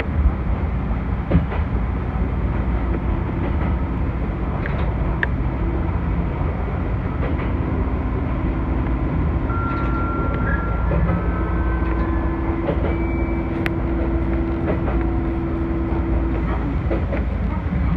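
Chichibu Railway electric train running, heard from inside the front of the car: a steady low rumble with scattered clicks from the wheels on the rails. A few short steady tones come in partway through.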